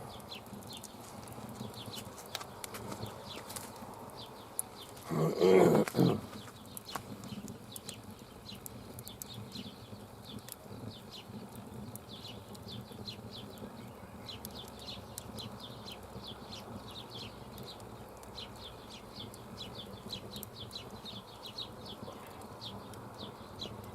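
Campfire crackling: many small sharp ticks and pops from the burning wood, running on steadily. About five seconds in, a short louder noise lasting about a second stands out above it.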